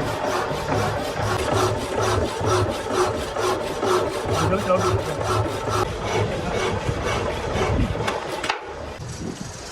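A workshop tool rasping against metal in even back-and-forth strokes, about three a second, which stop abruptly near the end.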